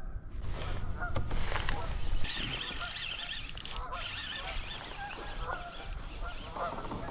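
A flock of geese honking, many calls overlapping throughout. A loud rushing noise runs over the first two seconds.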